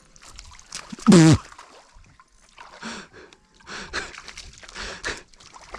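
A man's short wordless exclamation, a gasp or grunt falling in pitch, about a second in, followed by several softer scattered rustling noises.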